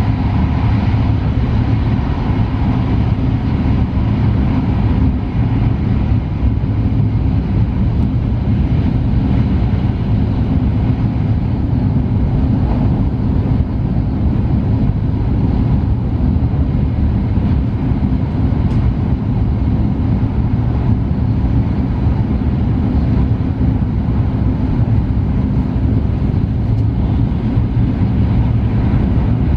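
Tohoku Shinkansen train running at speed, heard from inside the passenger cabin: a loud, steady low rumble with a faint hum.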